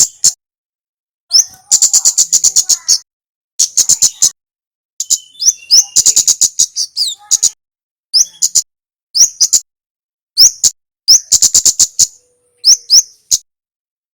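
Kemade bird singing: loud, high-pitched bursts of song, each a quick upward-swooping note followed by a fast rattling chatter, repeated with short pauses between them.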